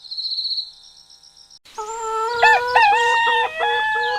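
Rooster crowing: a long crow with rising and falling notes from about one and a half seconds in, breaking into a run of shorter repeated notes near the end. A brief high trilling chirp sounds at the very start.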